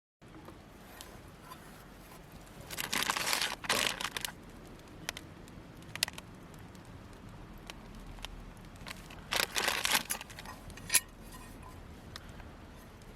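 Crinkling and rustling, as of packaging or a bag being handled, in two bursts a few seconds apart, with a few small clicks and clinks between them.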